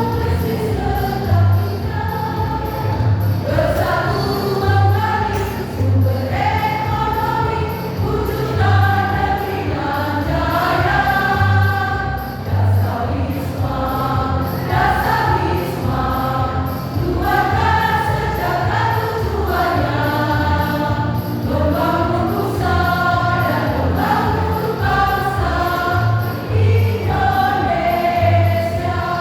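A choir singing a song together, over a steady low beat from the accompaniment.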